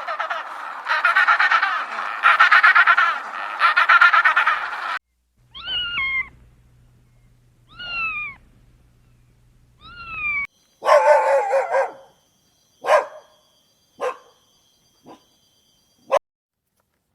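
A dense, fast chattering animal call, then three separate cat meows falling in pitch, then a run of short dog yips that grow fainter.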